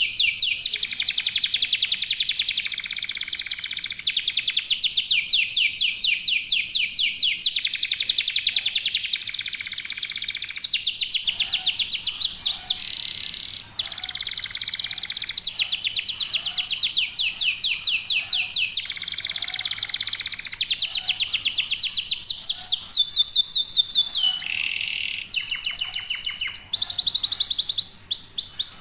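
Local domestic canaries singing, several joining in: long, fast trills and rolls of rapidly repeated notes, one phrase running into the next with only brief breaks.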